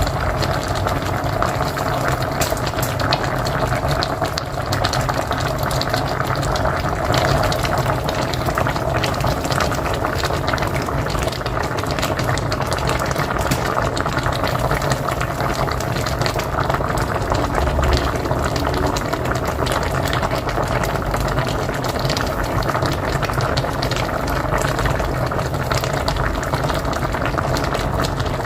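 Pot of mocotó (cow's feet) boiling hard on a wood-fired stove: continuous steady bubbling with dense small pops and a low rumble.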